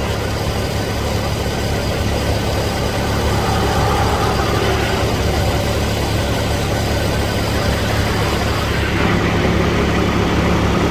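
Peterbilt semi truck's diesel engine running steadily with a low, even hum.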